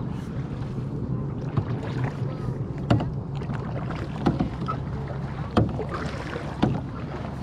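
Kayak paddle strokes, a sharp splash or knock roughly every second and a half, over a steady low hum.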